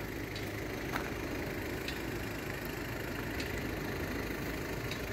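Steady low rumble of a road vehicle's engine idling, as traffic waits at lowered level-crossing barriers.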